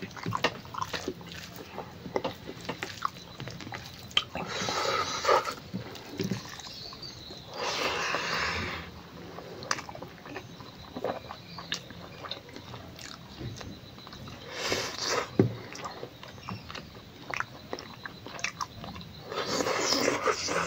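A person eating smoked pork and rice by hand, mukbang-style: close-up wet chewing and lip-smacking with many short sharp clicks, and four louder breathy stretches of about a second each.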